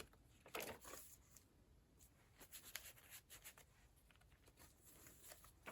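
Near silence with a few faint, brief rustles of paper as the pages of a handmade paper journal are handled and turned.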